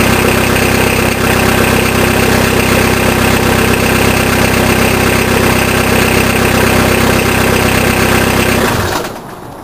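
Peugeot 306 turbo-diesel with a straight-through exhaust idling steadily, then cutting out near the end as the engine is switched off.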